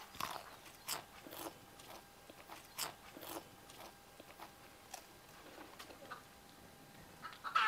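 Faint crunching and chewing as a person eats a crisp deep-fried chicken banki, a pastry-wrapped chicken roll: a scattering of separate short crunches, most of them in the first few seconds.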